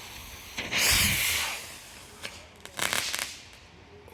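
Consumer firework going off: a loud rushing hiss about a second in, followed by a string of sharp crackles and pops a little later.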